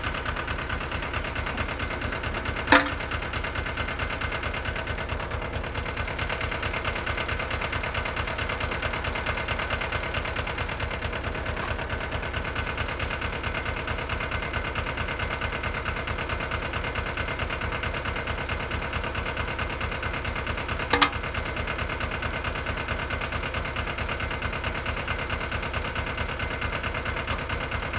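Small Yanmar compact tractor's diesel engine idling steadily with a fast, even pulse. Two sharp clicks stand out, about three seconds in and again near twenty-one seconds.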